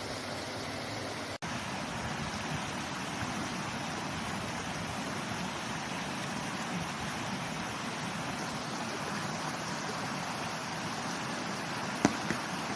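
Mountain stream water rushing steadily over rocks, broken by a momentary gap about a second and a half in and a sharp click near the end.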